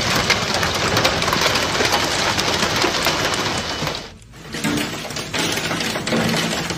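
Heavy storm rain, a loud dense hiss full of small ticks of drops; about four seconds in it breaks off and a different rushing storm noise with a low hum takes over.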